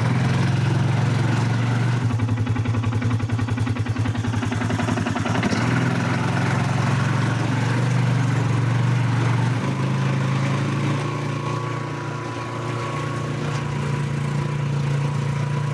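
Vehicle engine running steadily, its pitch shifting slightly a few times.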